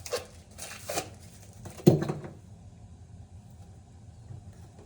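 Three short knocks from handling plastic filter parts, the last and loudest about two seconds in, followed by quiet room noise.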